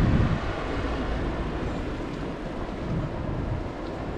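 Wind rushing over an action camera's microphone while riding a bicycle: a steady roar of noise with a low rumble, a little louder right at the start.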